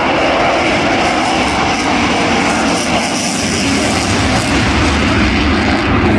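Eurofighter Typhoon's twin jet engines running loud and steady as the jet flies slowly, balanced on engine thrust.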